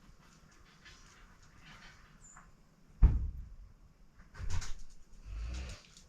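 A heavy thud about three seconds in, then further knocks and a low rumble, as a heavy appliance, a clothes dryer, is moved and set down.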